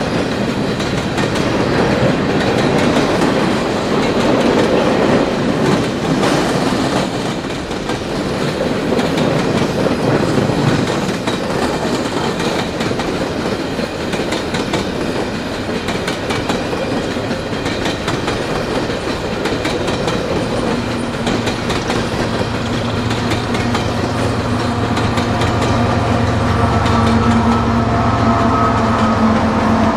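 Coal hopper cars of a freight train rolling past at a grade crossing, the wheels clicking over rail joints in a continuous rumble. From about twenty seconds in, a steady low engine drone grows louder as a Canadian Pacific diesel locomotive placed in the train approaches.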